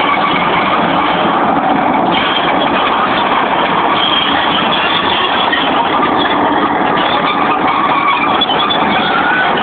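Fiat FL8 crawler bulldozer's diesel engine running loud and steady while working.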